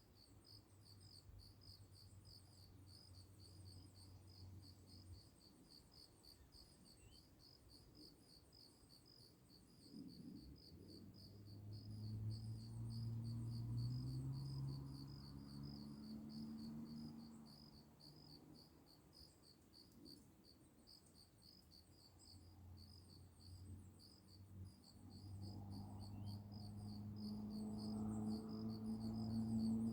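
Crickets chirping in a fast, steady, high pulsing trill. A low hum swells and fades about ten seconds in, and builds again in the last few seconds.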